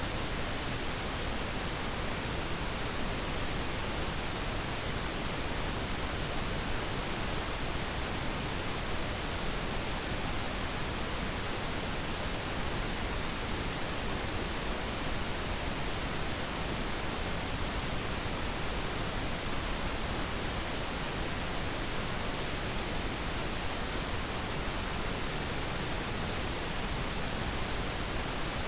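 Steady pink noise, an even, unchanging hiss across the whole range.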